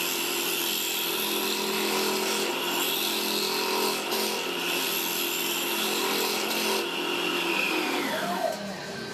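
Electric woodworking power tool running steadily with a high whine, then switched off near the end, its pitch falling as the motor winds down.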